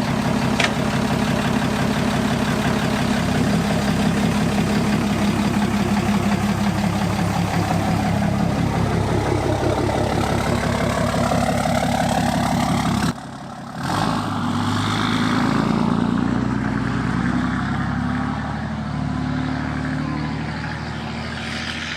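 Truck engine running steadily, then after a sudden break about 13 seconds in, its note rises and falls as it moves off and fades away near the end.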